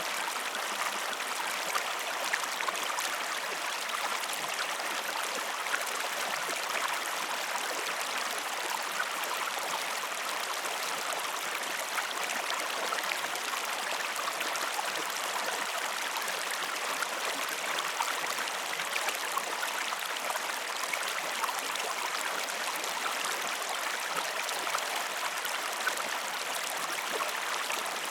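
A stream flowing steadily, with fine trickling and splashing.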